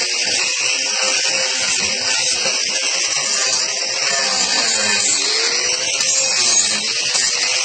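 Angle grinder fitted with a coarse Saburtooth flat carving disc, running continuously as it grinds into a wooden sculpture. The motor's pitch wavers around the middle as the disc bites into the wood.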